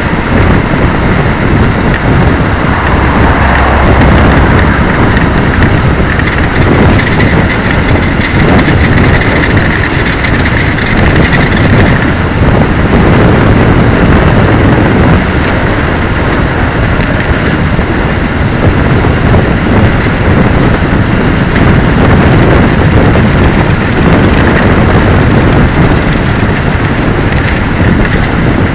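Loud, steady wind noise rushing over the microphone of a moving bicycle, with vehicle running noise underneath.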